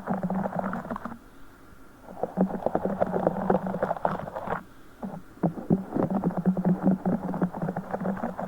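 A broken Orbeez ball squeezed and squished close to the microphone, making a dense crackling squish in three long spells with short pauses between.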